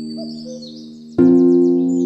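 Relaxing harp music with a new chord plucked about a second in, layered over forest birds chirping and trilling.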